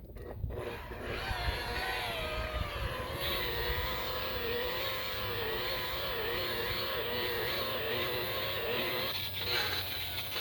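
DeWalt DWP849X rotary buffer running with its pad on the boat's gelcoat, cutting with heavy-cut compound. It starts up about half a second in, and the motor whine wavers in pitch as it works, dipping briefly near the end.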